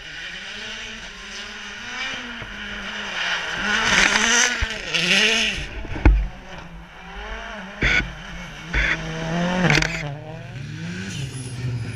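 Rally car engine revving hard, its pitch rising and falling again and again through gear changes and lifts as the car goes past, loudest about four seconds in. Several sharp bangs follow in the second half.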